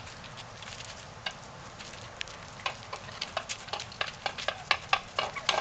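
Wild turkeys pecking at feed: irregular sharp clicks and taps, several a second, coming more often in the second half.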